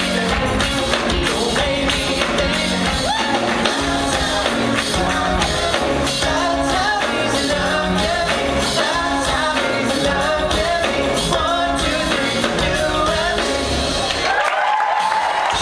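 A pop vocal group singing with band backing and a steady beat. About a second before the end, the band drops out beneath one held high vocal note that rises slightly.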